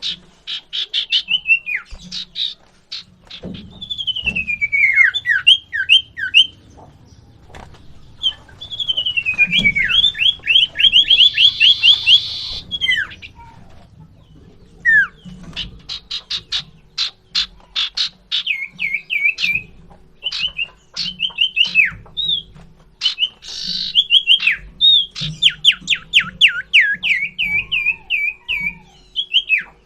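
Common iora singing vigorously: bursts of quick, repeated whistled notes that slide downward, fast chattering trills, and a couple of harsh rasping calls, with short pauses between the phrases.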